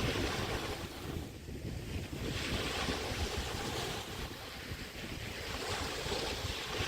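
Small bay waves breaking and washing up on a sandy beach, the surf rising and falling about every two to three seconds. Wind gusts rumble on the microphone throughout.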